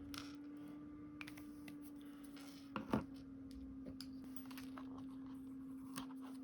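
Small clicks and light taps from handling paper stationery at a desk, with a sharper double tap about three seconds in, over a steady low hum.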